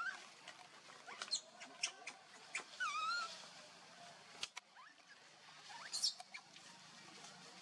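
Monkeys giving short high squeaks and chirps, one a warbling squeal about three seconds in and a sharp high squeal about six seconds in, with a single click between them.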